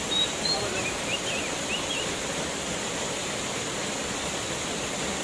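Steady rushing of a waterfall, with a few faint high chirps in the first two seconds.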